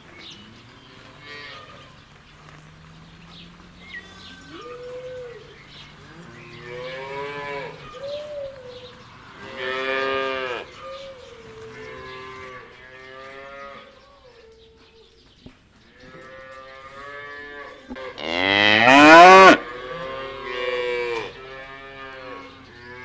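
Holstein cattle mooing over and over, one call after another at varying pitches. The loudest call, about eighteen seconds in, rises in pitch.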